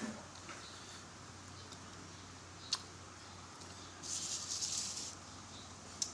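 Eating rice porridge (lugaw) close to the microphone: a sharp click near the start and another about two and a half seconds in, and about a second of soft hissing eating noise about four seconds in.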